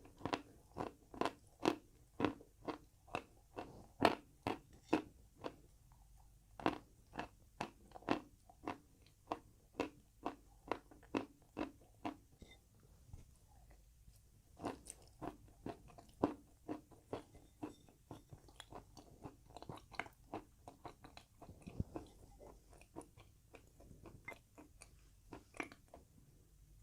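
Close-up chewing of crunchy chalk: a steady run of crisp crunches about two a second, with a short pause about halfway through before the chewing resumes.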